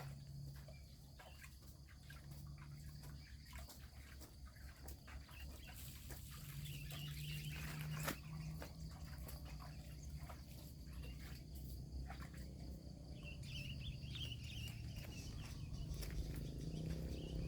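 Faint bird chirps in two short spells over a low steady hum, with scattered light clicks and one sharp knock about eight seconds in.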